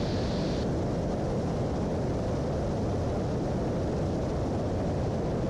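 Steady drone of a twin-engine Piper Apache's piston engines and propellers in flight, heard from inside the cabin, with the higher hiss dropping slightly a little over half a second in.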